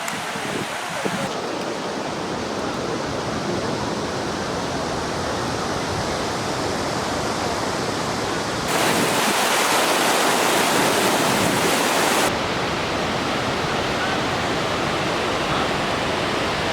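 Taughannock Falls, a 215-foot waterfall, rushing in a steady roar of falling water. It jumps louder about nine seconds in and drops back about three seconds later.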